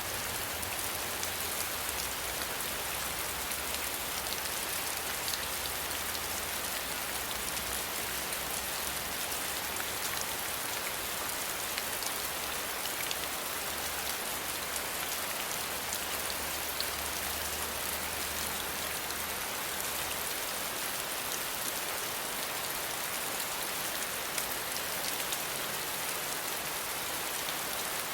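Steady rain falling: a dense, even hiss of rain with scattered individual drops ticking through it.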